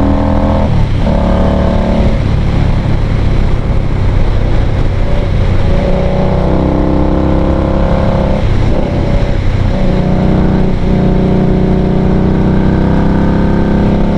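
2020 Indian Scout Bobber Twenty's V-twin engine running under way, its pitch climbing and dropping back with brief breaks at gear changes, about a second in and three times in the second half. Steady rushing noise runs underneath.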